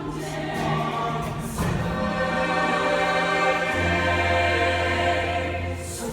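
A group of singers singing held chords in harmony, moving to a new chord about a second and a half in, with a low bass note entering about halfway through.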